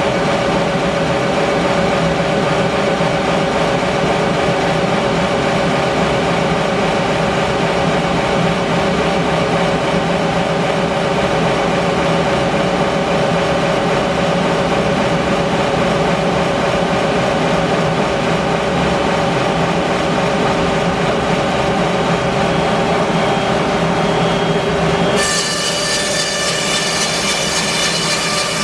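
A band sawmill running steadily, its engine and blade holding a steady pitch as it saws English larch. Near the end the sound changes suddenly to a brighter, higher whine.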